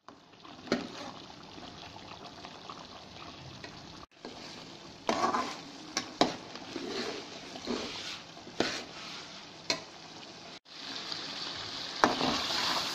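Chicken and tomato gravy sizzling in a metal karahi while a metal spatula stirs it, with sharp clicks as the spatula knocks and scrapes against the pan. The sizzling grows louder near the end as the gravy cooks down.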